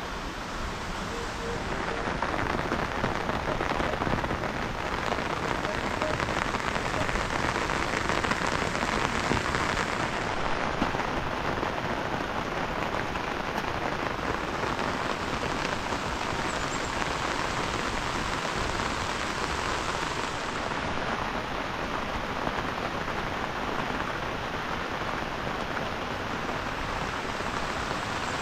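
Heavy rain falling steadily, a dense even patter of drops that swells a little in the first few seconds and then holds.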